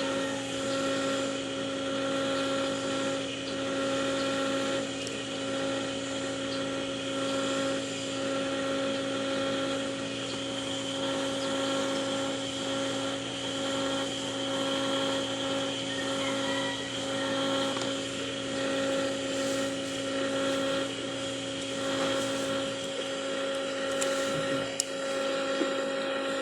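Steady machine hum from a running motor, unchanging in pitch, with a few light clicks of small parts being handled near the end.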